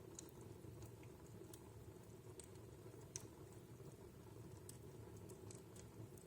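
Wood fire in a fireplace crackling faintly: scattered sharp pops over a low, steady background, with one sharper pop about three seconds in.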